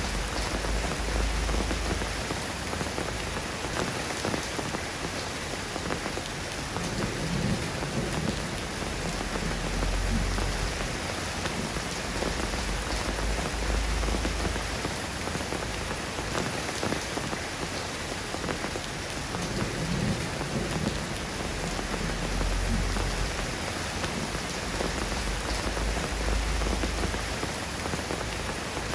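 Steady rain falling on a surface, an even hiss of drops, with low rumbles of distant thunder swelling and fading three times.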